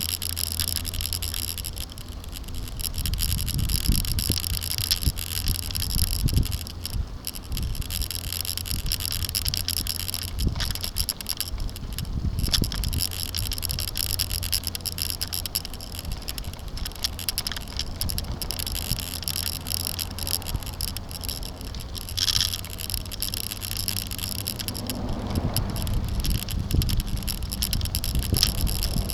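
Bicycle-mounted camera picking up the rattle and vibration of the bike rolling over a bumpy road, a steady low rumble with frequent small knocks, under a constant hiss of tyre and wind noise.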